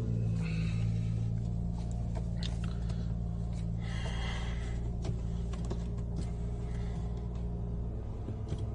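Rolls-Royce V12 engine running, heard inside the cabin as a steady low hum.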